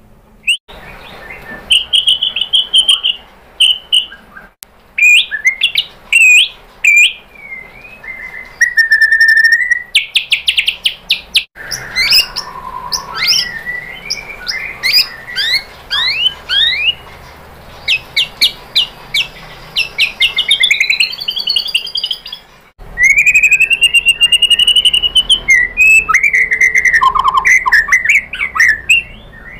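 White-rumped shama singing a long, varied song of clear whistles, trills and rapid chattering notes, with a louder stretch of song beginning about three quarters of the way through.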